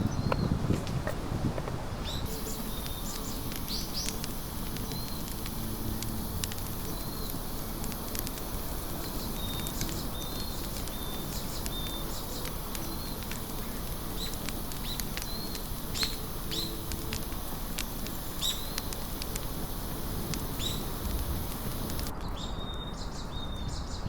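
Small birds chirping, short high calls repeated every second or two, over a steady hiss with scattered sharp clicks.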